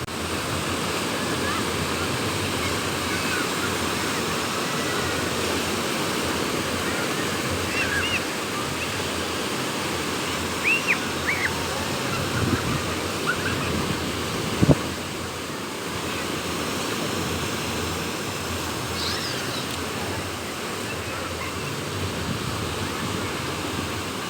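Sea waves breaking on the shore, with wind, making a steady rushing noise. A few short high chirps sound in the middle, and a single sharp tap comes a little after halfway.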